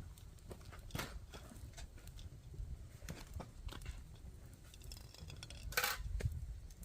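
Wood campfire crackling, with scattered small pops and snaps over a low rumble, and one louder sharp crack about six seconds in.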